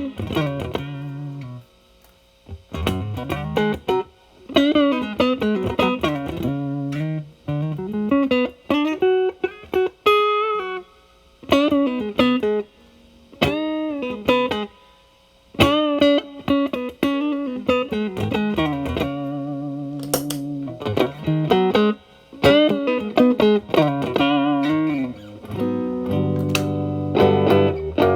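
Telecaster electric guitar through an E.W.S. Brute Drive distortion pedal, with its boost engaged and its gain low, into a Marshall Valvestate amp's clean channel. It plays single-note lead phrases with string bends, broken by short pauses, and chords ring out near the end.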